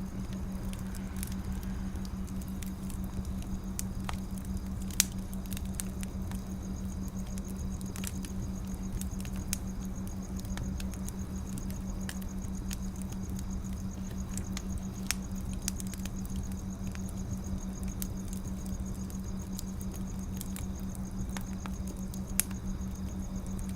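Wood fire crackling: irregular small pops and snaps, with two louder pops about five seconds in and near the end, over a steady low hum.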